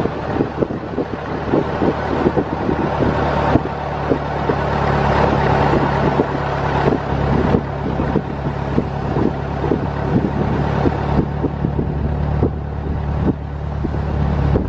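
1924 Dodge Brothers tourer's four-cylinder engine running steadily as the car drives, with frequent rattles and knocks from the old car and wind buffeting the microphone. The engine note grows a little louder a few seconds in.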